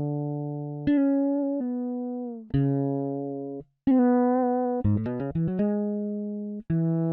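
Sampled fretless electric bass from Toontrack's EZbass Fretless expansion playing a MIDI bass pattern on its own. Mostly long, ringing notes, with a quick run of short notes about five seconds in and some notes sliding in pitch.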